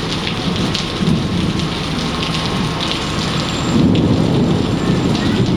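Heavy rain pouring down hard in a thunderstorm, with a low rumble of thunder that swells loudest about four seconds in.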